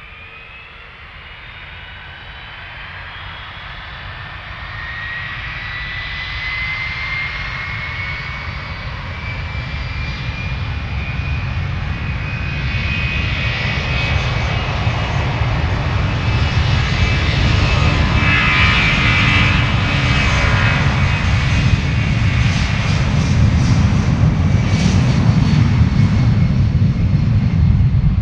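Boeing C-32A (757-200) with Pratt & Whitney PW2000 turbofans getting steadily louder, as in spooling up for take-off: a fan whine rises in pitch over the first ten seconds, then a growing roar and deep rumble take over and hold through the end.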